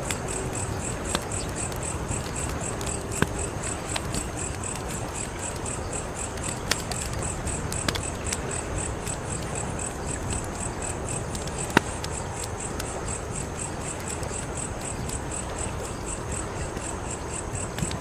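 Wood fire burning with a steady low rush and a few sharp crackling pops, the loudest about twelve seconds in. Under it, crickets chirp in a high, rapid, even rhythm.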